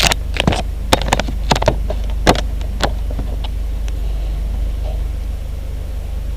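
Luscombe light aircraft's engine running with a steady low drone, heard from the cockpit, with a run of sharp clicks and knocks during the first three seconds.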